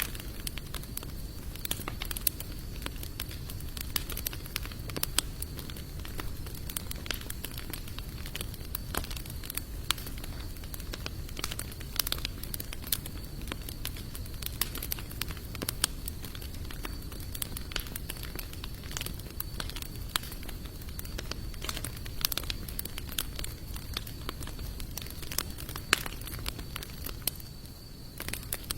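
Campfire of sawtooth oak and mixed hardwood logs burning steadily, crackling and popping irregularly over a low rumble of the flames. A thin, steady high-pitched tone runs underneath and fades out near the end.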